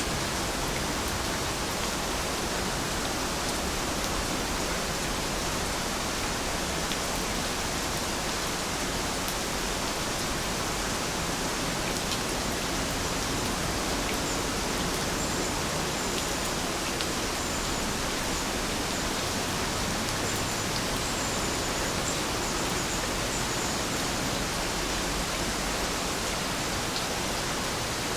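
Heavy rain falling steadily, a dense, even hiss with no letup. A few faint high chirps come now and then around the middle.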